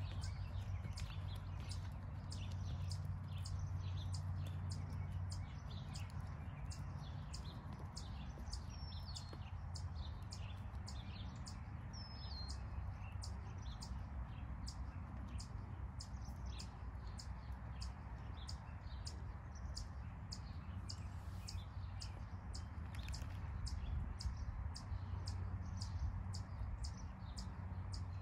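Birds chirping in a long run of short, high notes, about two a second, with a couple of falling chirps among them, over a steady low rumble.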